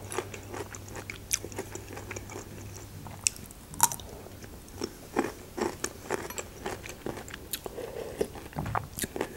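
A person eating: a run of irregular crunchy bites and chewing, with small clicks.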